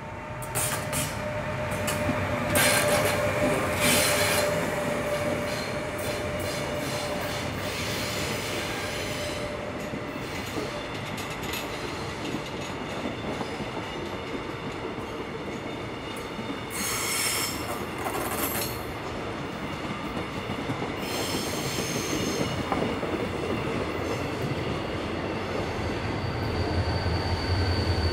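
A train running past on the rails, its wheels squealing in bursts over steady running noise, loudest about three seconds in and again after about seventeen seconds.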